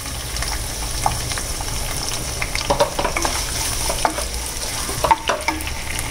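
Sliced shallots and curry leaves sizzling in hot oil in a nonstick kadai, stirred with a wooden spatula that scrapes and taps against the pan a few times.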